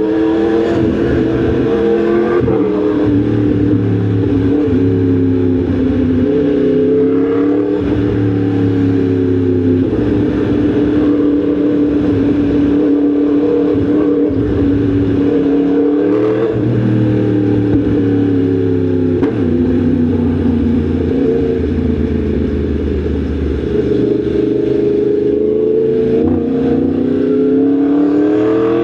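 Yamaha MT-10 SP's crossplane inline-four engine under way, its note climbing and falling again several times as the bike speeds up and eases off.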